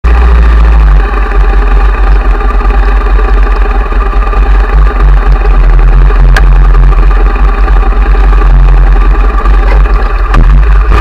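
Ducati Monster 1100 EVO's air-cooled L-twin idling, loud and close, with an uneven pulsing beat.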